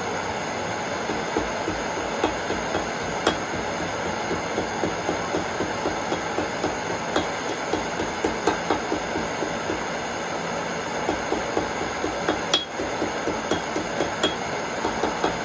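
Hammer striking a hot nail on the horn of an anvil to bend it into a hook: a run of quick light blows through the middle and several sharper, ringing hits. A gas torch's flame runs steadily underneath.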